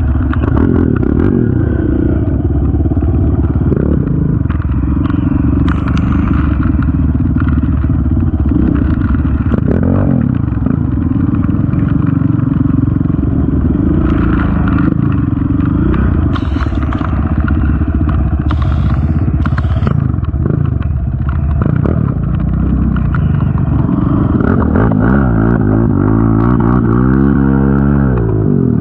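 Honda TRX450 ATV's single-cylinder four-stroke engine running under way on a trail, with rattles and clatter over the rough ground. The engine's pitch swings down and up again near the end.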